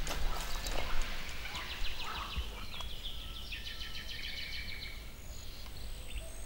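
Birds singing outdoors, with rapid high trills through the middle, over a steady low rumble. A few sharp clicks come in the first second.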